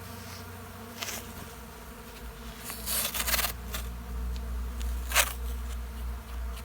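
A bee colony buzzing steadily around an opened hive being divided, with a few short scraping crackles from handling near 1 second, around 3 seconds and about 5 seconds in.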